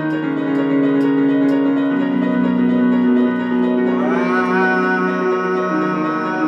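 Keyboard music: held chords that change every couple of seconds, with a tone that glides upward and holds about four seconds in.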